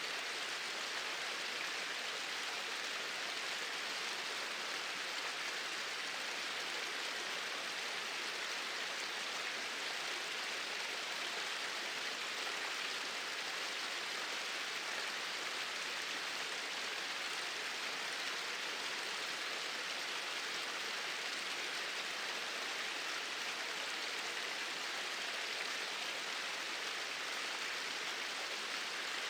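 Two small waterfalls pouring steadily: an even, unbroken rush of falling water that does not change.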